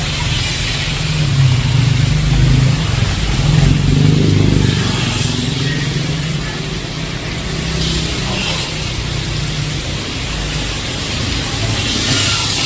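A motor vehicle's engine running close by, loudest in the first five seconds and then fading, over the steady hiss of heavy rain.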